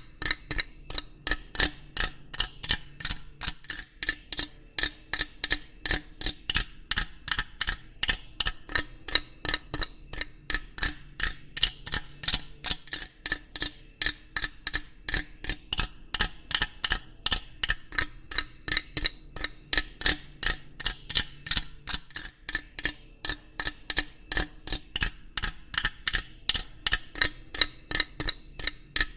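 Steady mechanical ticking, about three ticks a second, with a faint low hum underneath.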